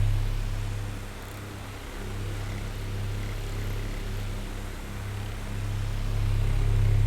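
Oscillating electric fan running: a steady low motor hum under an airy whir. It fades about a second in as the head turns away and swells back near the end as it turns back.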